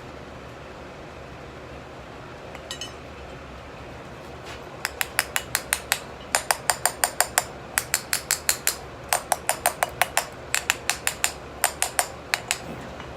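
Light metal-on-metal tapping in quick runs of four to seven taps with short pauses, as steel powder is added to a packed steel Damascus canister and the can is tapped to settle it.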